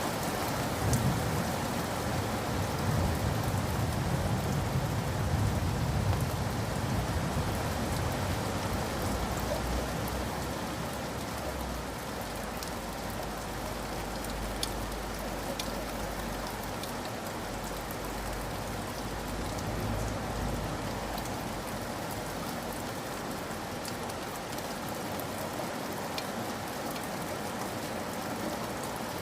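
Steady heavy rain falling on surfaces, with a few sharp drip ticks here and there. A low rumble under it during the first ten seconds or so fades away.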